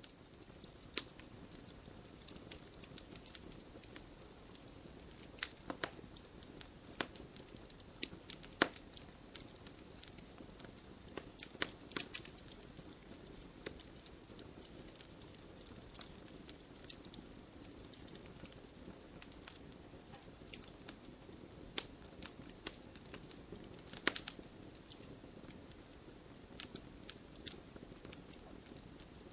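Wood fire burning in a fireplace, with irregular sharp crackles and pops over a soft steady hiss of flames.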